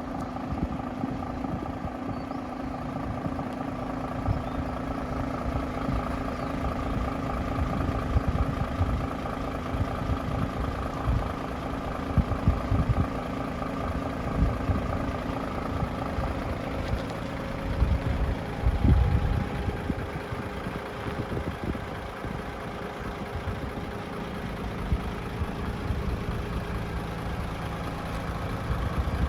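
DAF XF106 tractor unit's Paccar 460 bhp Euro 6 diesel engine idling steadily, with uneven low thumps over it.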